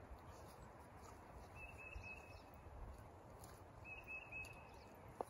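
Quiet outdoor ambience with a bird giving two short, high trilled calls a couple of seconds apart, and a single sharp tap near the end.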